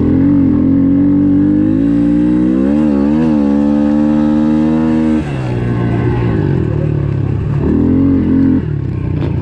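Honda CRF110F pit bike's small single-cylinder four-stroke engine running at high revs under throttle, then shutting off about five seconds in so the pitch drops, before a short burst of throttle near the end.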